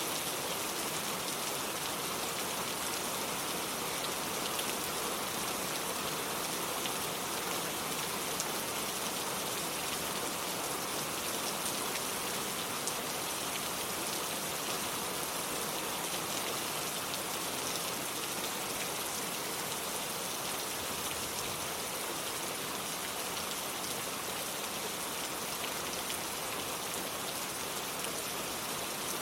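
Steady rain falling on a surface, with faint scattered ticks of single drops.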